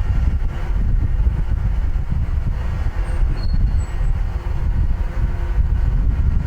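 Wind buffeting the microphone: a loud, gusty low rumble, with a faint brief high squeak about three seconds in.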